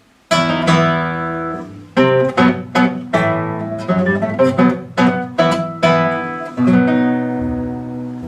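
Acoustic guitar playing an instrumental introduction: chords strummed and plucked at an even pace, each left ringing.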